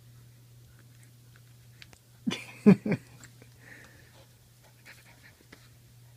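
An old dog giving three short, loud vocal sounds in quick succession, the middle one the loudest, amid faint mouthing and shuffling noises.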